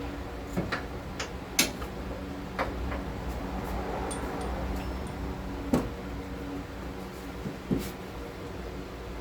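Irregular sharp clicks and knocks of hand tools and suspension hardware being handled while a front suspension bolt is fitted, about seven over a few seconds, over a steady low hum.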